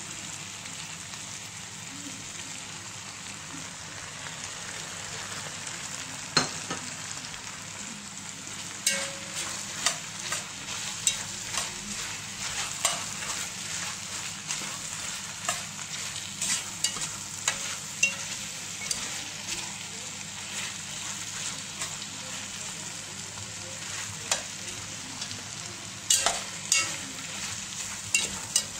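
Chicken, green peppers, mushrooms and sliced ginger frying in an enamelled casserole pot, a steady sizzle. A slotted metal spoon clicks and scrapes against the pot as the food is stirred, sparsely at first, then often from about a third of the way in, with a quick cluster near the end.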